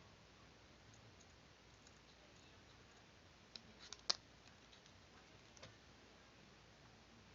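Near silence broken by a few short, light clicks in a small cluster about four seconds in, one sharper than the rest, and a fainter click shortly after.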